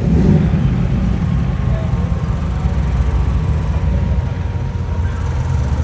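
Low, steady rumble of a car engine running, with people talking in the background.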